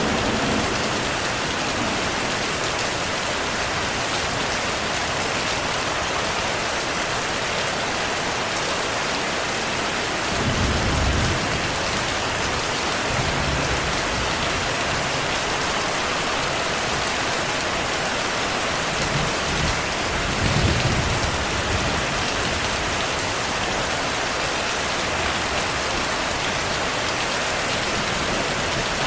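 Steady heavy rainfall with distant thunder rumbling low several times, most strongly about ten seconds in and again about twenty seconds in.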